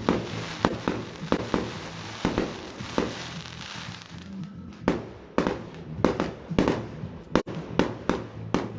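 Fireworks going off: a dense run of crackling bangs over a hiss for the first few seconds, then separate sharp bangs about twice a second.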